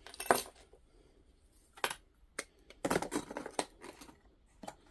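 Small metal pieces, coins and bits of silver jewelry, clinking as they are dumped out onto a tabletop: scattered sharp clinks, with a quick cluster about three seconds in.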